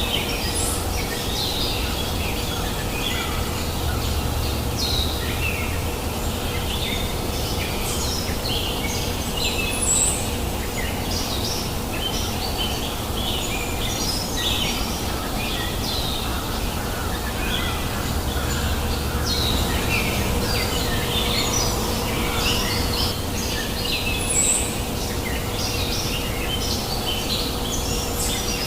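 Many birds chirping and calling continuously over the steady rushing of a flowing river, with a faint steady hum underneath.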